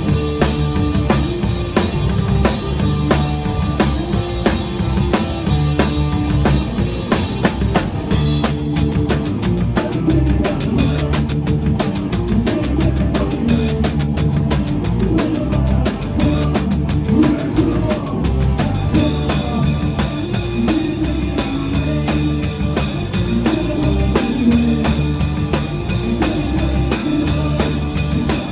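Live rock band playing, a drum kit with kick and snare keeping a steady beat under bass notes. About eight seconds in the cymbal work turns to a dense fast ticking for about ten seconds, then goes back.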